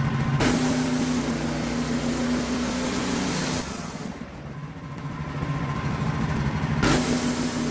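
An engine running steadily, with the noise changing abruptly about half a second in and again near the end.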